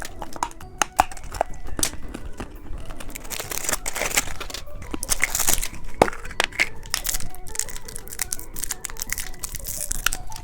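Plastic candy packaging crinkling and tearing as it is handled and opened, a dense run of small crackles and clicks.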